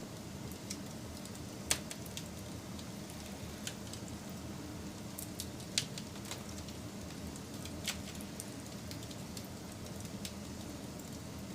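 Wood fire burning with a steady low rumble and irregular crackles and pops, the sharpest pops about two seconds, six seconds and eight seconds in.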